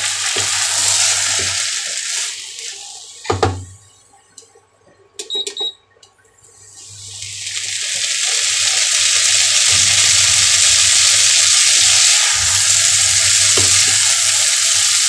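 Vegetable chowmein stir-frying in a hot pan: a steady sizzle as a spatula tosses and scrapes the noodles. The sizzle dies away a few seconds in, with a sharp knock and a few clicks, then builds back up.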